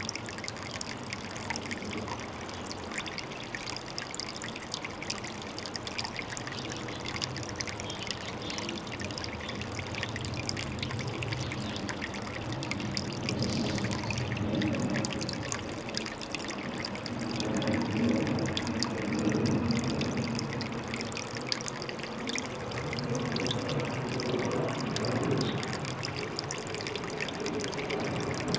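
Water trickling and splashing steadily into a pond, growing fuller and louder through the second half.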